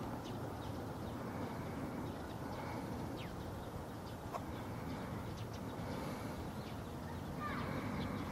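Birds chirping in short, scattered calls over a steady low background rumble, with a couple of quick downward-sweeping notes.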